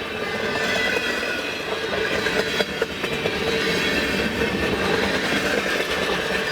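Freight cars of a mixed manifest train rolling past: a steady rumble of steel wheels on rail with thin, steady squealing tones and a few sharp clicks a couple of seconds in.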